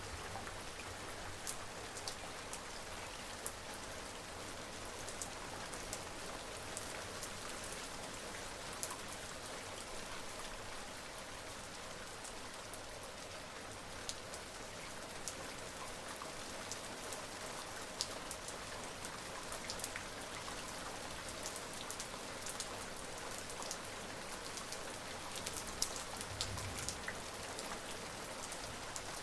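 Steady rain falling, a constant hiss with individual drops ticking sharply here and there. A faint low rumble swells briefly a few seconds before the end.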